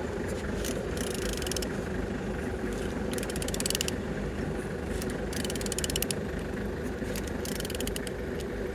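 Ratchet wrench clicking in short runs about every two seconds as a removed car engine's crankshaft is turned over by hand, a check that the engine is free and not seized; a steady hum runs underneath.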